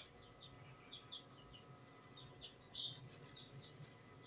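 Faint bird chirping: many short, quick chirps, each dropping slightly in pitch, a little louder about three seconds in.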